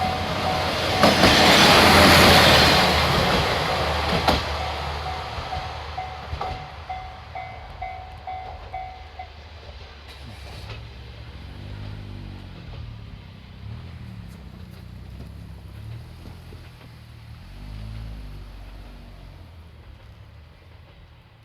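Shinkansen-styled diesel railcar passing close over a level crossing, loudest about two seconds in, its wheels clacking over the rail joints as it runs by and fades away. The crossing bell dings steadily until about nine seconds in, then stops.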